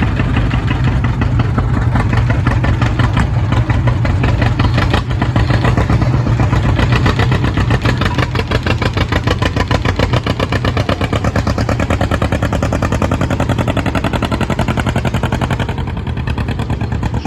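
Pulling tractor's engine running loud, with rapid firing pulses and a heavy low end, then easing off near the end.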